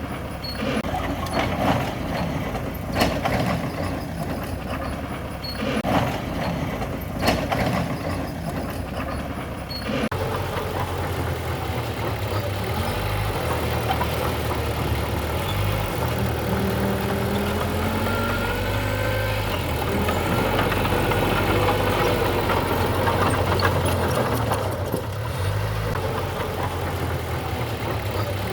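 Heavy diesel engine of earthmoving machinery running, with several sharp knocks and clanks in the first third. About ten seconds in the sound changes abruptly to a deeper, steadier engine drone with a few faint squealing whines.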